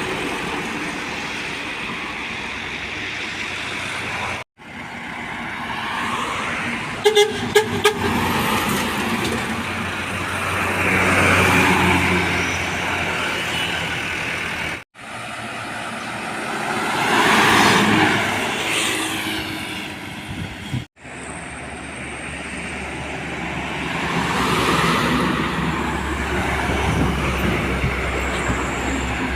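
Heavy trucks passing on a highway: engine and tyre noise swelling and fading as each one goes by, in several clips cut together with brief breaks. About seven seconds in come three short, very loud blasts.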